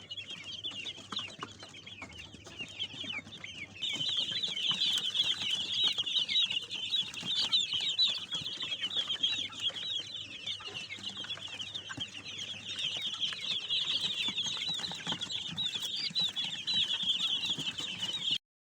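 A flock of young chicks peeping together in a dense chorus of short, high cheeps. It gets louder about four seconds in and cuts off abruptly just before the end.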